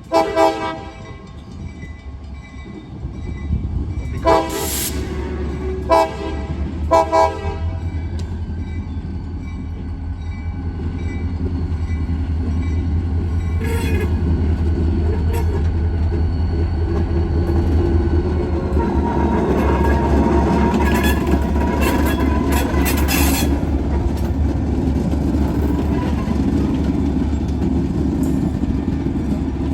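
Diesel locomotive sounding its air horn in several short blasts, then its engine running with a steady low rumble that grows louder about halfway through as it throttles up, with a few clanks of rolling stock.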